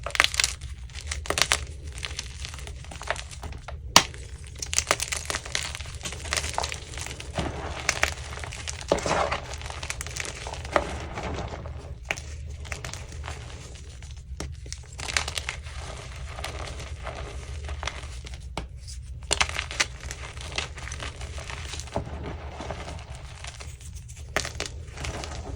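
Crunchy chunks of Easy Grip gym chalk being crushed and crumbled, a dense run of sharp crackling snaps and gritty crunching.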